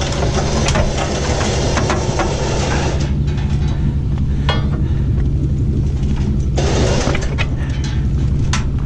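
A vehicle engine running steadily at idle, with a few sharp clicks and clanks over it.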